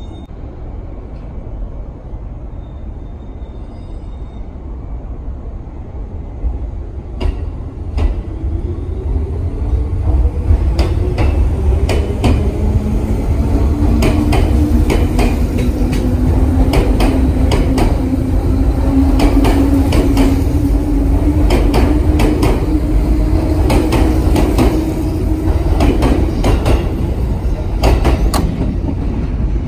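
Electric train running through the station, growing louder about a third of the way in. Over a steady rumble, a motor whine slowly rises in pitch as the train gathers speed, and the wheels click sharply many times over the rail joints.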